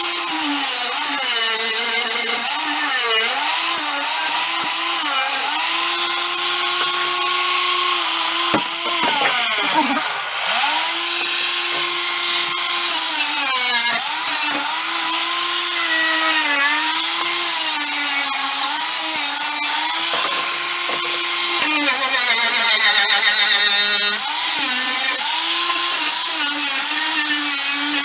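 A handheld electric power tool runs at high speed with a steady motor whine and a hissing scrape, and its pitch dips again and again as it is pressed into the work. About nine seconds in it winds down almost to a stop, then spins back up.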